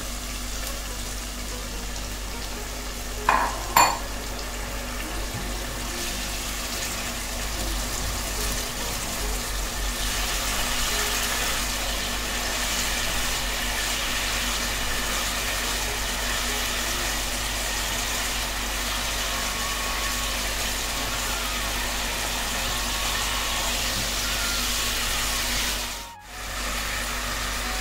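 Brinjal in a yoghurt-based masala sizzling steadily in a non-stick kadai after a little water has gone in, stirred now and then with a wooden spatula. There is a short louder sound about three and a half seconds in.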